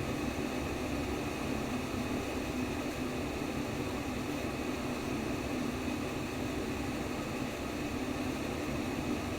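Steady white noise for sleep: an even, unchanging rush with a stronger low band beneath the hiss.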